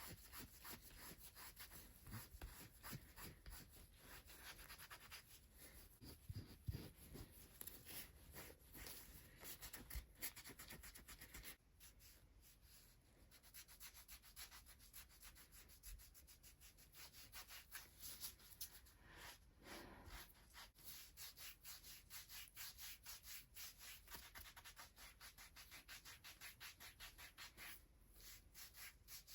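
Hands rubbing and stroking the bare skin of a person's feet during a close-miked foot massage. The sound is a quiet run of quick, soft brushing strokes, with a short pause a little over a third of the way in.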